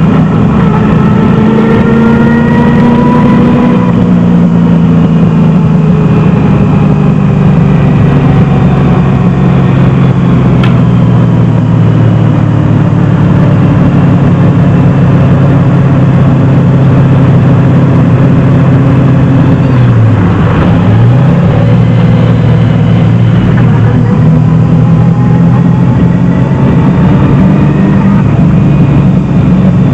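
Loud 327 Chevy small-block V8 in a 1971 Datsun 240Z running hard at track speed, heard from inside the cabin, its engine note rising and falling with the throttle. About twenty seconds in the pitch dips sharply and comes straight back.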